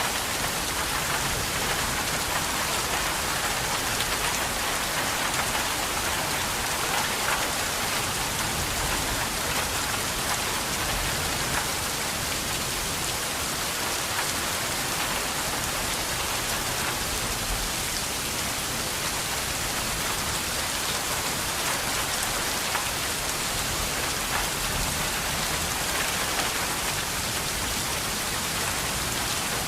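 Steady rain falling, an even hiss with scattered drop ticks and no change in strength.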